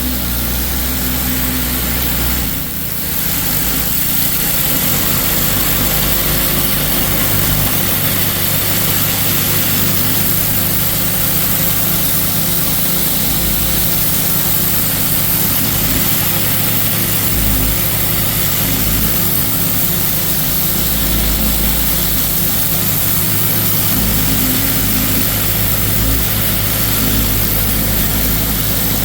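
Pressure washer running steadily, a constant engine drone under the loud hiss of the high-pressure water jet. It dips briefly about two and a half seconds in.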